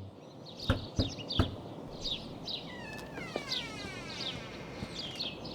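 Birds chirping repeatedly over steady outdoor background noise. Three short knocks come about a second in, and a falling call sounds around the middle.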